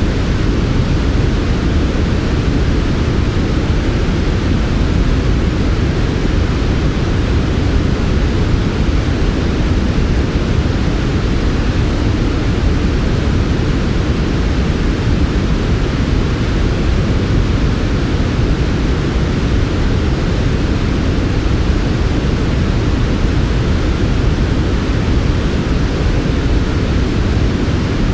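Steady, unchanging synthetic sleep noise, sold as smooth white noise but weighted toward a deep low rumble, with a softer hiss above.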